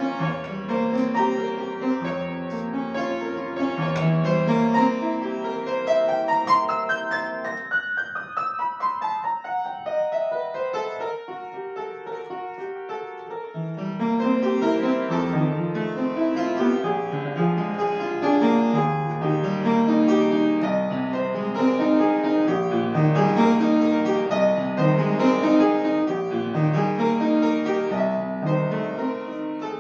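Solo piano playing classical music. A rising run comes a few seconds in, then a lighter passage without the bass, and the full bass accompaniment returns about halfway through.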